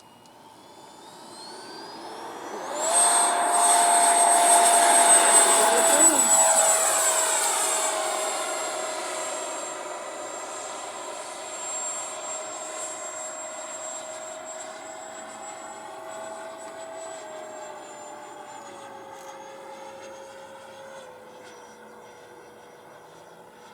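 FMS Rafale RC jet's 90mm electric ducted fan spooling up with a rising whine over about three seconds. It then holds a steady, loud high whine that fades as the jet draws away, with two small drops in pitch near the end as the throttle is eased.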